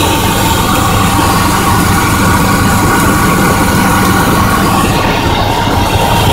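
Dodge Ram 1500 pickup's engine idling steadily, with an exhaust leak that the owner takes for a blown header gasket.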